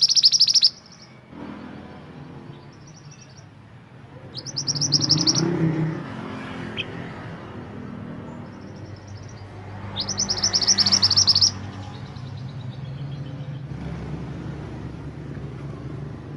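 Mantenan gunung songbird singing three short bursts of fast, repeated high chirps about five seconds apart, over a steady low rumble.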